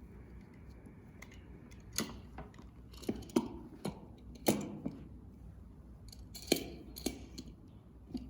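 Plastic vaginal speculum being inserted and adjusted: a run of sharp plastic clicks and knocks, about eight of them, irregularly spaced, with the loudest a few seconds in.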